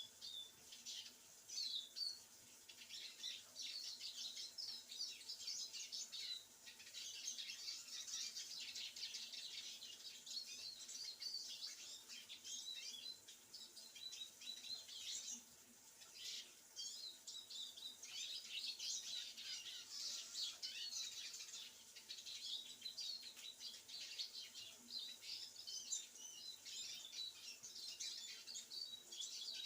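Small songbirds singing: a steady run of rapid twittering and chirps, easing off briefly about halfway through.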